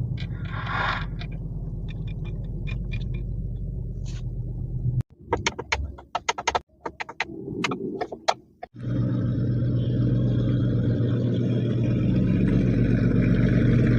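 Ford Mustang engine and exhaust running with a steady low rumble. After about five seconds it cuts off abruptly, leaving a few seconds of scattered clicks and clatter. The exhaust then comes back in suddenly, louder and fuller, and runs steadily.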